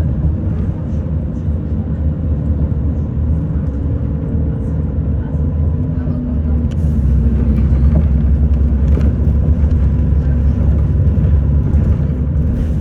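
City bus in motion heard from inside the passenger cabin: a steady low engine and road drone, with a faint steady whine and light rattles, growing a little louder past the middle.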